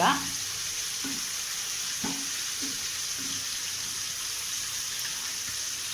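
Onion and spice masala with chopped tomatoes sizzling steadily in a frying pan as the tomatoes cook down.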